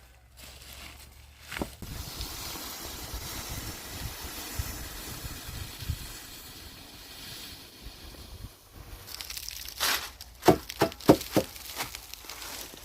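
A few seconds of steady hissing noise, then near the end a quick run of four sharp knocks with a short ring.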